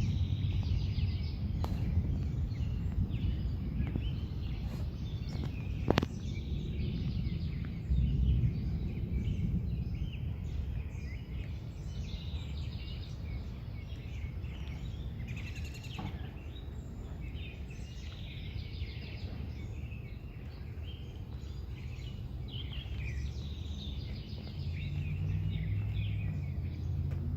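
Many birds chirping and singing at dawn over a continuous low rumble that swells slightly near the end, with a sharp click about six seconds in.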